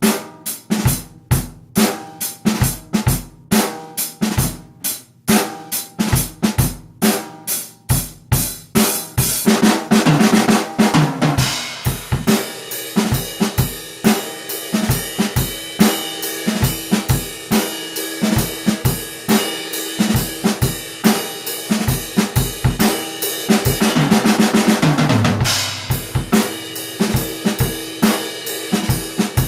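Acoustic drum kit played in a steady kick-and-snare groove along with a recorded country song. The cymbals wash more from about nine seconds in. A fill rolls down the toms around ten seconds in and again about 24 seconds in.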